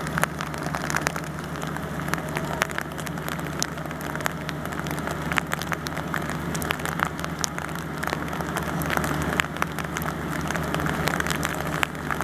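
Rain falling, with many close raindrops ticking irregularly on a nearby surface over a steady low hum.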